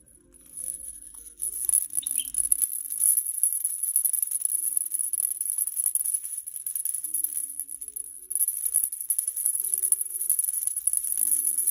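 A maraca shaken fast and continuously in a steady rattle, dipping briefly about two-thirds of the way through.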